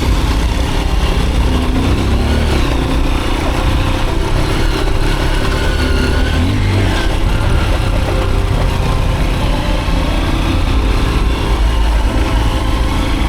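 Off-road motorcycle engine running with a steady low rumble, its pitch rising and falling as the throttle is worked a couple of times.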